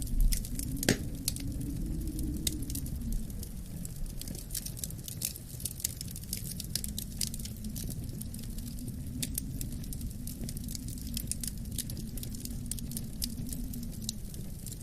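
Wood fire crackling with frequent sharp pops, a louder pop about a second in, over a low rumble of wind that swells and eases.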